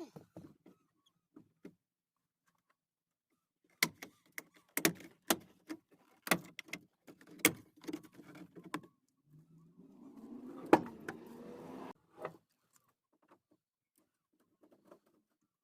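A door armrest being test-fitted to a pickup's door panel: a string of sharp clicks and knocks, then about two seconds of rasping, scraping noise.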